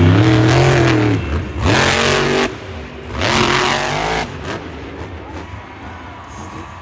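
Monster truck engine revving hard in bursts, its pitch rising and falling, with a loud stretch over the first two and a half seconds and a second burst about three to four seconds in, then running quieter.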